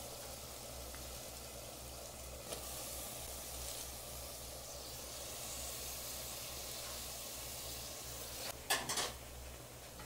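Minced meat masala frying in oil in a pan, a steady gentle sizzle, as chopped spinach and dill leaves go in on top. A short rustling scrape comes about nine seconds in.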